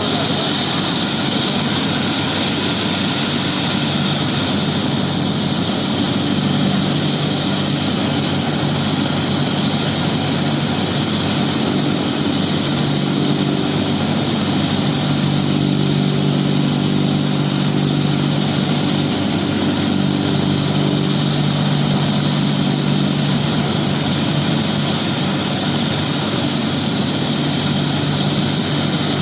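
Air ambulance helicopter running steadily: a high, even whine over a lower engine-and-rotor hum.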